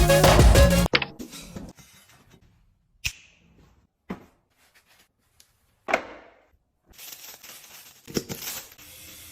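Background music stops about a second in; then a few separate light knocks of objects being handled, one with a short ringing tail, and a faint steady hiss near the end.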